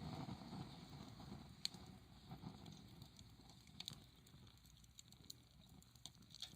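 Wood campfire crackling faintly, with a few scattered sharp pops over a low, fading hiss of the flames.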